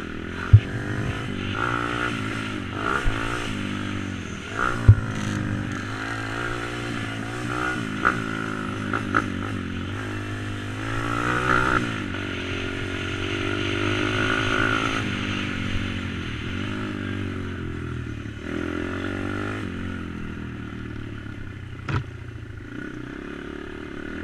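Stomp Z140 pit bike's tuned YX140 single-cylinder four-stroke engine being ridden, its pitch rising and falling repeatedly as it revs up and drops back. A few sharp knocks cut through, the loudest about half a second in and another near the end.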